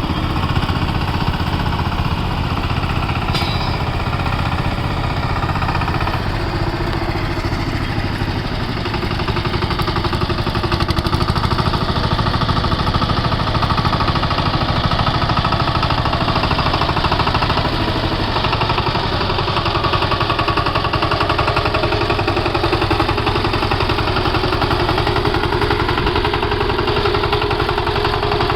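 Single-cylinder diesel engine of a VST Shakti 130 DI power tiller running steadily with a fast, even knocking beat, a little louder from about ten seconds in.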